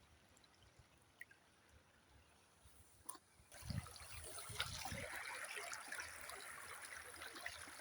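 Near silence for the first three and a half seconds, then torrential rain comes in as a steady hiss, with a few low thuds a little after it starts.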